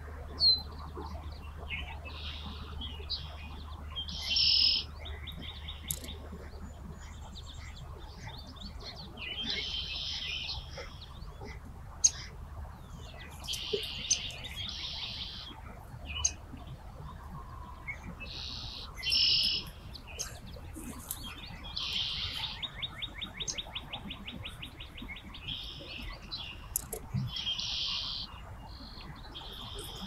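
Small birds singing and calling, short high phrases repeating every second or two, with a fast buzzy trill in the latter part. A low steady rumble underneath fades away in the first half.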